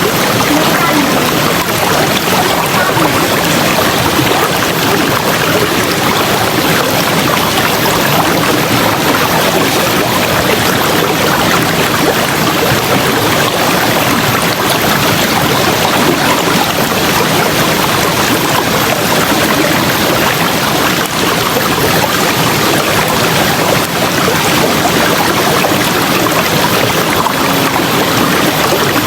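River water flowing steadily, a loud, even rush of water with no breaks or changes.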